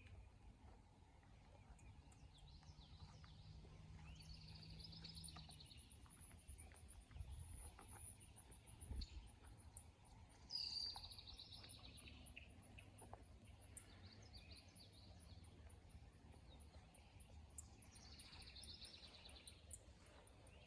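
Faint songbird singing: a short phrase ending in a trill, repeated three times about seven seconds apart. A fast, very high ticking runs underneath throughout.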